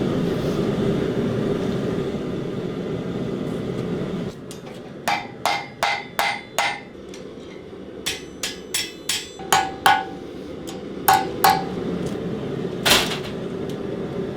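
Blacksmith's hammer striking hot steel on an anvil, each blow ringing, in uneven runs of quick strikes with one heavier blow near the end. For the first four seconds or so there is only a steady rushing noise.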